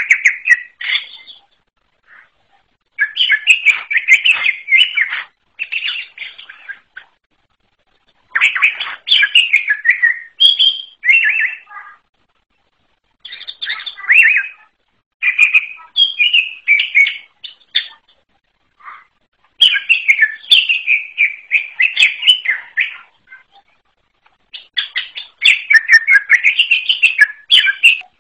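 Wild-type cucak ijo (green leafbird) singing: phrases of quick, varied chirps and warbles, each a second to three long, broken by short pauses.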